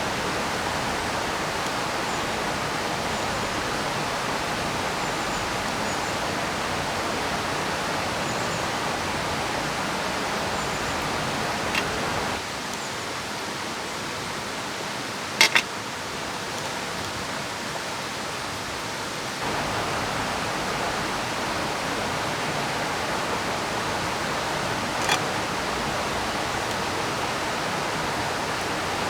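Steady rushing of a river and falling rain, a little quieter for several seconds in the middle. A few sharp clicks cut through it, the loudest a quick double click about halfway through.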